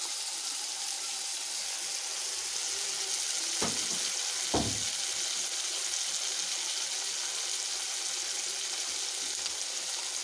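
Bhola fish curry in mustard and poppy seed gravy sizzling steadily in a kadai on the gas stove, a constant hiss. Two light knocks come about three and a half and four and a half seconds in.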